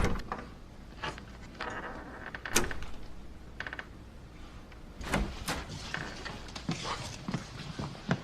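A door being opened and handled indoors: a series of separate clicks and knocks, with a couple of short squeaks.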